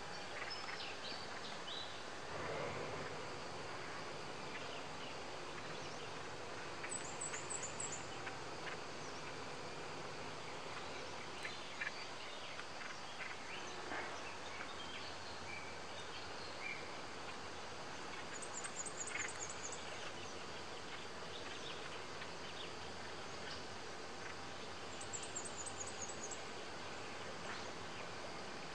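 Rural ambience: a steady background hiss with insects and birds calling here and there. Three times, about a quarter, two thirds and nine tenths of the way through, comes a quick run of very high chirps.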